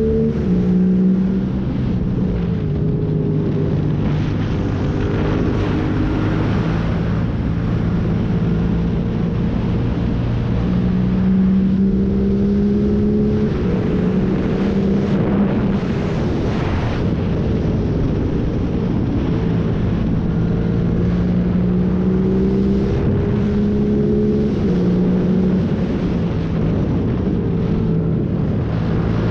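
Yamaha MT-07's 689 cc parallel-twin engine through a full MIVV exhaust, de-catted and with no dB killer, revving up and dropping back again and again through gear changes and corners.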